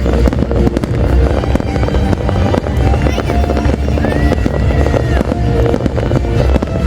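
Fireworks display going off without a break: a dense run of bangs and crackles, with a brief whistle about four seconds in. Music plays loudly underneath.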